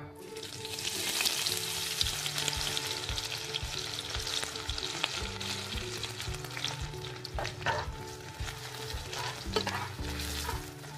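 Oil sizzling hard in a kadai as whole spices and sliced onions fry, swelling about a second in. In the second half a metal spatula scrapes and knocks against the pan as the onions are stirred.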